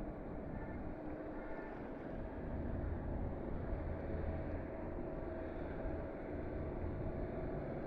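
Ship's engine running steadily: a low drone with a constant hum that grows stronger about two seconds in, over a background of wind and water noise.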